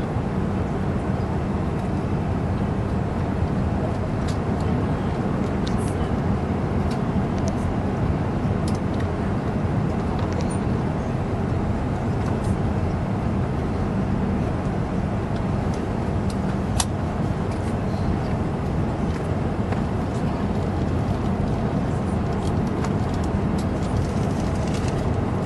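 Steady cabin noise inside an Airbus A380 in flight after take-off: an even, low rush of airflow and engine hum, with a few faint light clicks.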